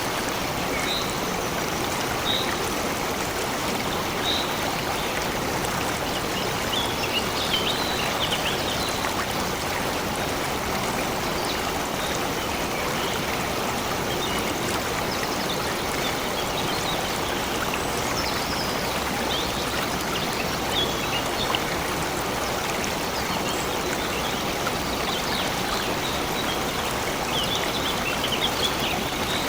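Stream flowing steadily over rocks, with small birds chirping briefly now and then above it.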